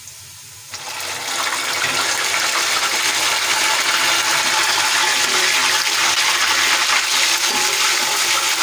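Whole tomatoes in hot oil with fried onions, setting off a loud, steady sizzle that begins about a second in.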